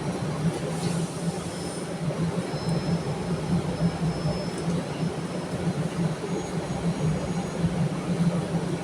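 MARTA Breda CQ312 subway car running: a steady rumble with a low hum, and faint thin high tones now and then.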